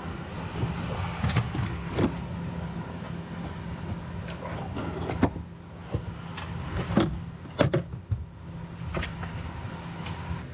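Irregular knocks, clunks and rattles of a Mercedes-Benz GL third-row seat assembly being worked loose and lifted out of the car, over a steady background hum.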